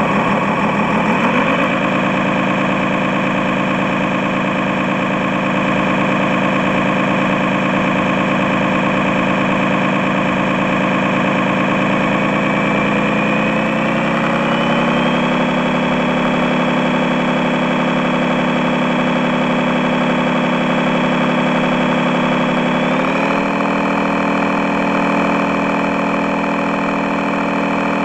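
An RC model truck's engine sound, running steadily at idle, rising in pitch about halfway through and stepping up again a few seconds before the end, as the revs change with throttle.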